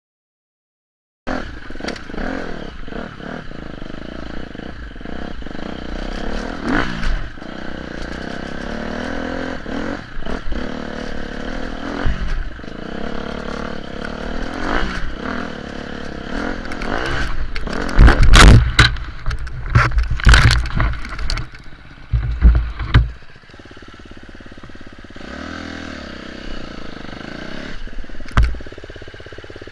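Off-road motorcycle engine revving up and down as the bike climbs a rough trail, then a burst of loud knocks, scraping and clatter, typical of the bike going down in a fall. Afterwards the engine runs on more quietly and steadily.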